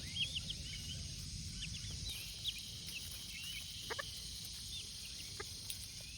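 Young frizzle chickens peeping: many short, high chirps scattered throughout, with a few brief sharper calls near the middle, over a steady low outdoor rumble.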